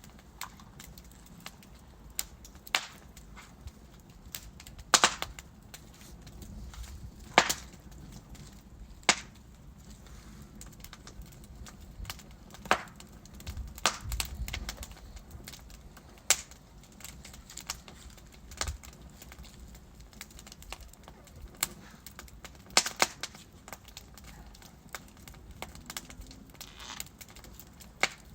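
Burning logs crackling in a wood fireplace: irregular sharp pops and snaps, a handful much louder than the rest, over a soft steady hiss of flame. The low rumble of the fire swells briefly about halfway through.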